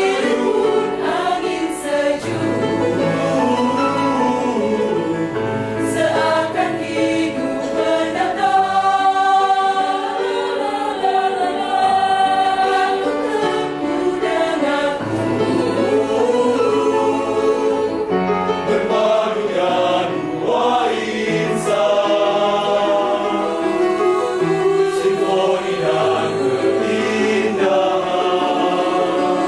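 A choir singing in several voice parts, holding sustained chords that change every second or two.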